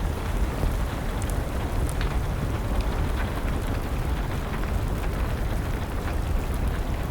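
Steady rain with a heavy low rumble underneath, and a wood fire crackling in scattered small pops.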